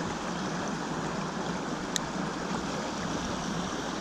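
A small mountain stream running, a steady rush of flowing water, with a single short click about two seconds in.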